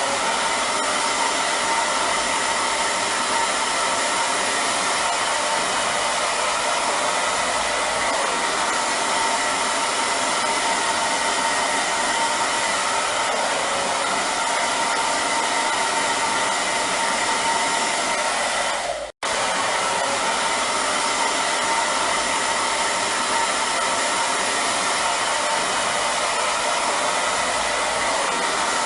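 Hair dryer running steadily: a constant rush of blown air with a steady whine in it. It cuts out for a split second about two-thirds of the way through, then resumes unchanged.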